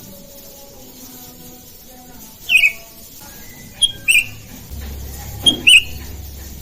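Sooty-headed bulbuls (kutilang) calling back and forth with short, loud, down-curving notes: one call about two and a half seconds in, then two quick pairs of calls near the end.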